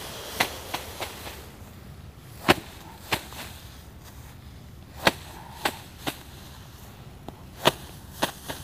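Rice being threshed by hand: bundles of cut stalks struck hard to knock the grain loose, giving about ten sharp thwacks at uneven intervals.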